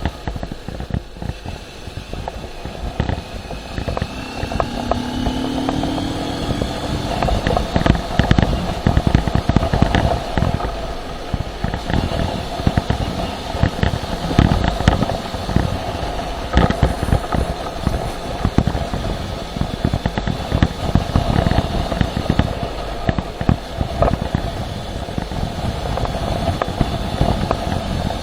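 Motorcycle running on the move, engine note under heavy rumbling, crackling wind noise on the microphone, with a brief rise in pitch about five seconds in.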